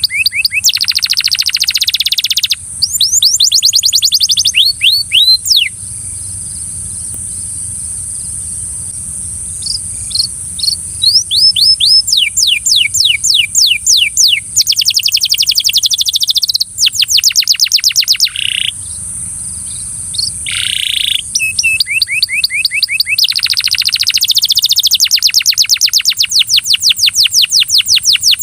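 Belgian canary singing: fast trills of repeated sweeping notes alternating with dense, buzzy rolls, with a quieter lull of a few seconds about a quarter of the way in.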